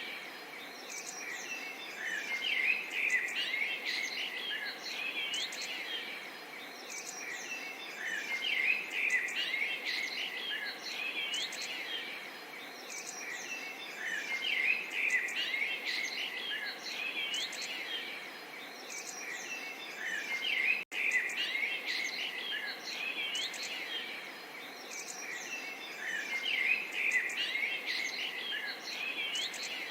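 Small songbirds chirping and trilling in clusters every few seconds over a soft, steady murmur of running water. The sound cuts out for an instant about two-thirds of the way through.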